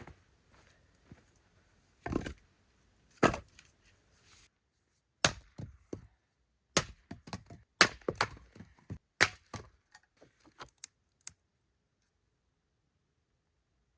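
Wood being broken up for a campfire: an irregular run of sharp cracks and knocks, the loudest a few seconds in, stopping after about eleven seconds.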